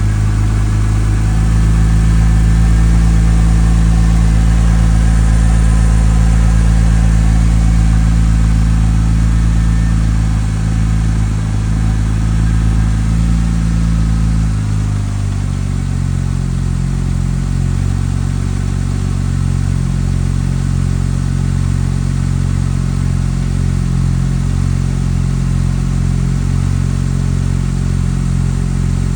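Porsche 996 911's water-cooled flat-six idling steadily after a cold start. About halfway through, the idle steps down to a lower, steady speed as the fast warm-up idle settles.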